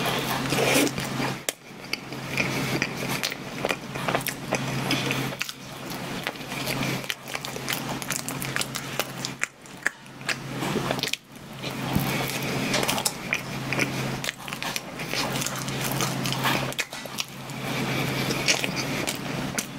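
Close-miked biting and chewing of a soft mocha cream bun, full of wet mouth clicks and smacks, over a steady low hum.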